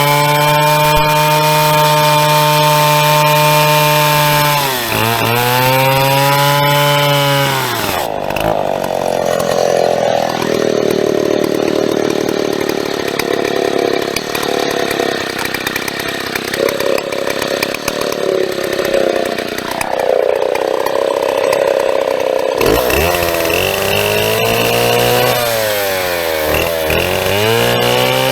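Large two-stroke chainsaw of the Stihl 090 replica type, sawing birch. It holds a steady high-revving note for about five seconds and dips briefly. From about eight seconds in the note turns rougher and wavering for some fourteen seconds, then near the end the revs rise and fall again.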